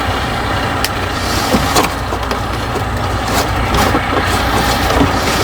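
An engine idling steadily, with scattered light clicks and taps of hand tools over it.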